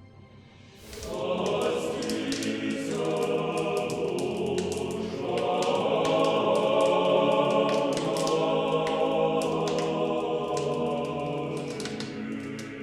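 Choir singing a church chant, entering about a second in and easing off near the end.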